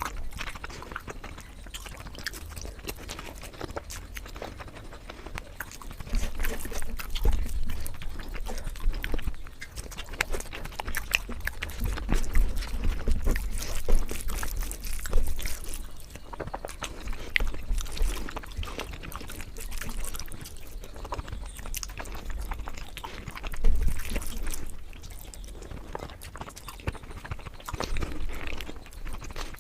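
Close-miked chewing and eating: a steady run of irregular mouth clicks and smacks, with louder bites now and then.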